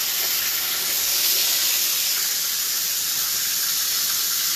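Breaded chicken-fried steaks frying in hot oil in a skillet: a steady sizzle.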